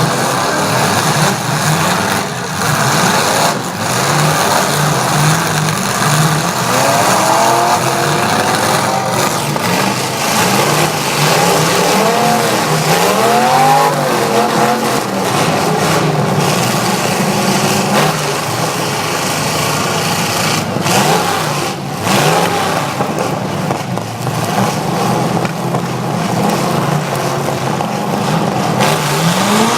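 Demolition derby trucks with engines revving hard, their pitch climbing and falling again and again over a steady noisy din. A few sharp bangs cut through it, typical of trucks crashing into each other.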